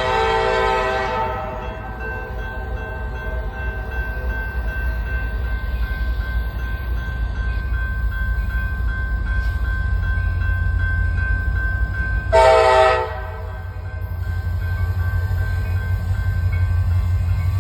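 Diesel locomotive air horn on a freight train led by two GE Evolution-series (GEVO) locomotives, sounding a multi-note chord. The blast ends about a second in, and a second short blast comes about halfway through the second half. A low diesel engine rumble grows steadily louder as the locomotives approach.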